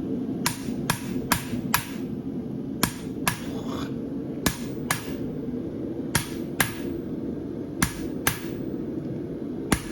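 Hand hammer striking a steel creaser on a hot horseshoe branch against the anvil, cutting the nail crease. It gives sharp, ringing metal blows, about a dozen of them, mostly in pairs about half a second apart. A steady hum from the forge runs underneath.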